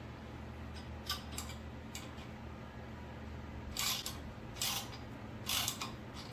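Wrench being worked on a home-made puller, pressing a polyurethane bushing in: a few short sharp mechanical strokes, three louder ones about a second apart near the end.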